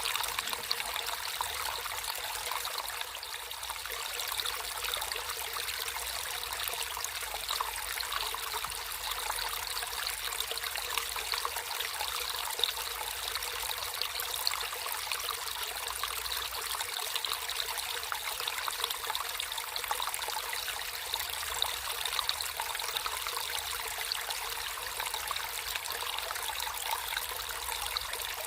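Natural flowing water, a small stream running steadily with a bright, splashy sound and no deep rumble.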